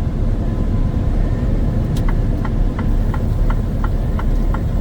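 Semi-truck cab on the highway: steady low engine and road rumble, with the turn-signal indicator starting to tick about two seconds in, about three ticks a second, as the truck signals for an exit.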